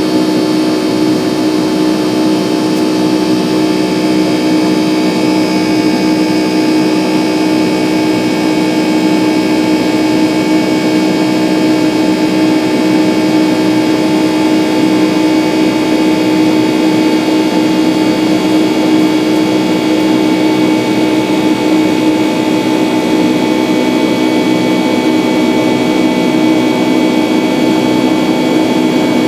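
Airliner jet engines running steadily in flight, heard from inside the passenger cabin as a constant hum under a higher whine. Some of the tones shift slightly about three-quarters of the way through.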